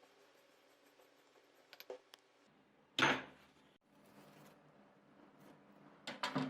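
Hard objects being handled and set down: a few light clicks, a single loud knock about three seconds in, then a quick cluster of knocks near the end.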